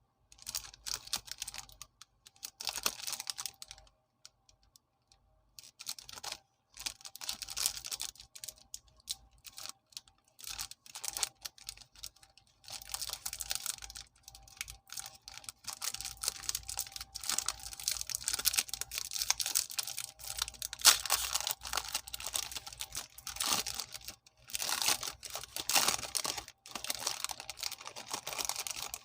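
Biscuit packaging being handled and opened: a plastic or foil wrapper crinkling and rustling with dense crackly clicks, in bursts with short pauses between them.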